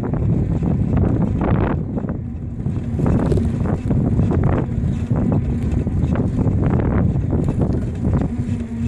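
Wind buffeting the microphone of a camera carried on a moving bicycle: a loud, uneven low rumble with gusty surges.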